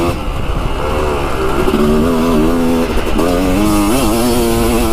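Yamaha dirt bike engine running under way, its pitch rising and falling several times as the throttle opens and closes.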